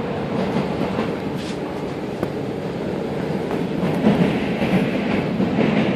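Suburban electric train running, heard from inside the carriage: a steady rumble with a few sharp clicks, growing slightly louder about four seconds in.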